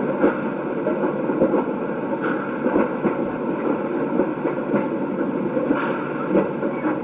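Narrow-gauge train carriages rolling along the track: a steady rumble with scattered clicks and knocks from the wheels on the rails.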